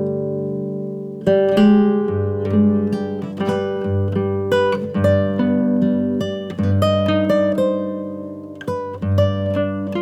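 Acoustic guitar music: picked notes and chords ringing out, a chord fading at first, then a new run of picked notes from about a second in.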